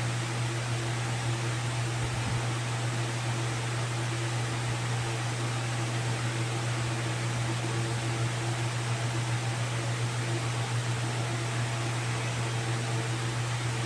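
A small motor running steadily, like a fan: a low hum under an even hiss, with no change throughout.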